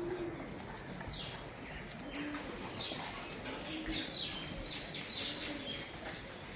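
Doves cooing, a low repeated coo about every second or so, with small songbirds chirping over it in quick falling notes, most busily in the middle.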